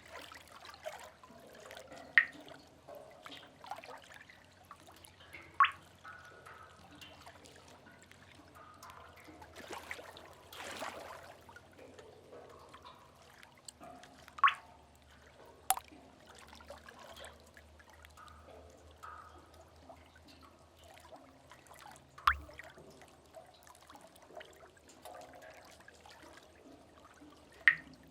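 Sea-cave water drips: single drops falling into water every few seconds at irregular intervals, each a sharp plink, over a faint steady trickling background. About ten seconds in, a soft wash of water swells and fades, like a distant wave.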